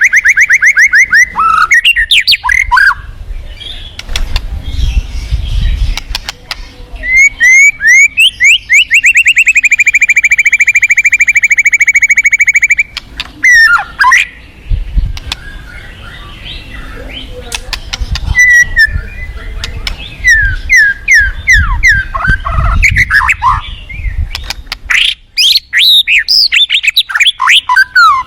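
White-rumped shama (murai batu) singing loud, varied song. It gives fast rattling trills of repeated notes, one long rapid trill lasting about five seconds in the middle, and quick whistled phrases that slide up and down.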